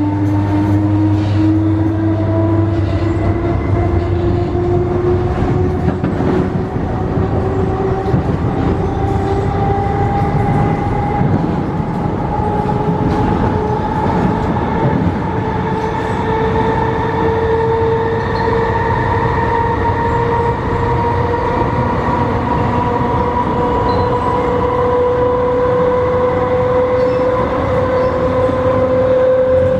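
Nose-suspended traction motors of an MTR East Rail MLR electric multiple unit whining as the train accelerates, the whine climbing slowly and steadily in pitch over the steady rumble of the running train.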